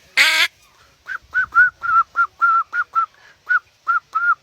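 A man imitating a bird call by whistling: a quick series of short, clear notes of steady pitch, about three a second, beginning about a second in. The call is his imitation of the bird Egyptian hunters call the balbula. Two short, harsh honk-like calls come at the very start.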